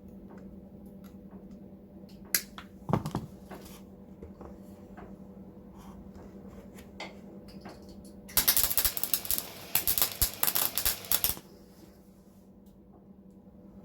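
A few scattered clicks and knocks, then a welding arc crackling for about three seconds: a short weld run on the car's steel sill panel. A steady low hum runs underneath.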